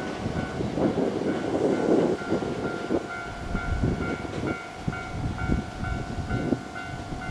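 Railway sounds on a Hankyu Kobe Line station platform: a low rumble with irregular knocks, and from about a second in a warning tone that pulses on and off about twice a second.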